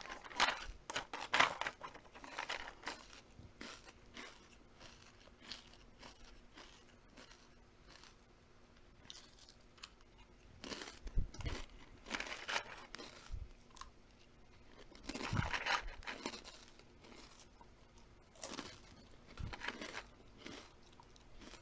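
Someone eating crunchy food: crisp bites and chewing that come in several short bursts with pauses between.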